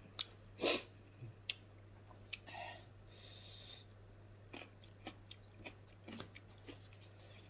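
A person chewing and eating by hand: scattered short mouth clicks and smacks, a louder smack just under a second in, and a soft hiss around three seconds in, over a low steady hum.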